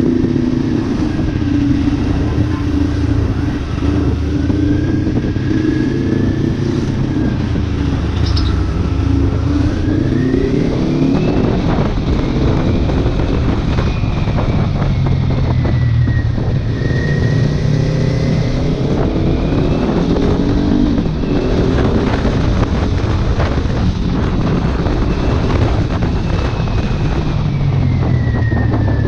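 Kawasaki Ninja 400 parallel-twin engine through an aftermarket exhaust while riding, its pitch rising and falling several times with throttle and speed. Steady wind noise on the microphone underneath.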